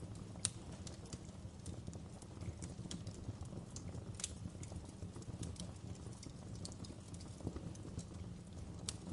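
Wood fire burning in a fireplace: a low steady rumble of flames with irregular sharp crackles and pops from the firewood, the loudest about half a second in and again around four seconds in.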